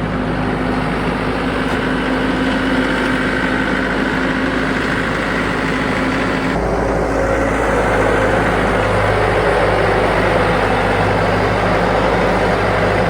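An engine running steadily, with a shift in its tone about halfway through.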